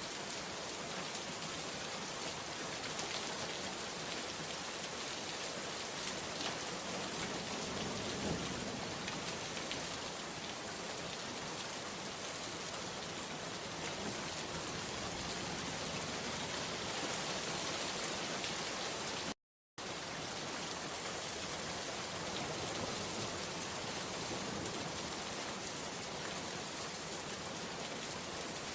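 Steady heavy rainfall pattering on surfaces, an even hiss of countless drops, with a faint low rumble about eight seconds in. The sound cuts out completely for a split second about two-thirds of the way through, then resumes.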